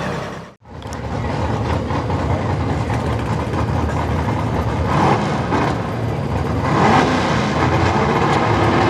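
Small-block V8 engine of a 4x4 pulling truck running with a steady loud rumble, its revs rising near the end.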